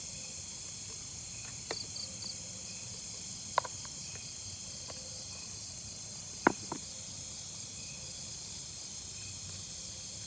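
Steady high chorus of forest insects, with a faster pulsing chirp above it, about two pulses a second. A few sharp clicks break in, about two, three and a half, and six and a half seconds in, the last the loudest.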